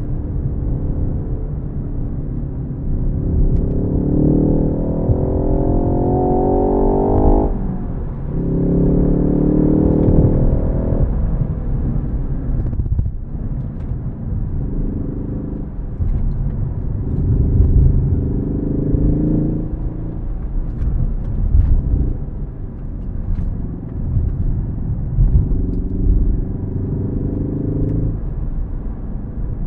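Ford Focus ST's turbocharged four-cylinder engine pulling hard through the gears of its six-speed manual: the engine note rises steadily, drops sharply at an upshift about seven seconds in, and climbs again. It then backs off, followed by several shorter climbs and lifts, over a constant low rumble of road and tyre noise.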